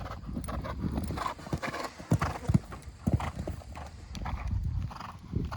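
A horse cantering, its hoofbeats thudding in a repeated rhythm, with a few sharper, louder thuds about two seconds in.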